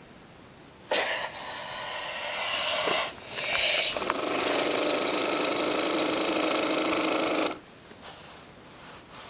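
Tekky Toys animated striking-snake Halloween prop running, its motor-driven mechanism making a dense mechanical buzzing clatter that starts about a second in, dips briefly, then runs steadily before cutting back near the end. The owner suspects a bad motor or springs.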